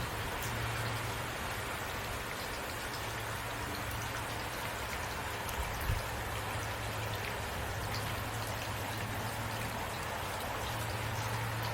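Heavy rain falling steadily, with scattered drops ticking, over a low steady hum. A brief soft thump comes about six seconds in.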